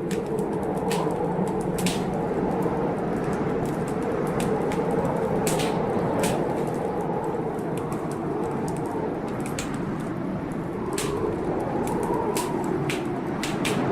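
Wood fire crackling, with irregular sharp pops, over the steady noise of a storm outside that slowly swells and eases.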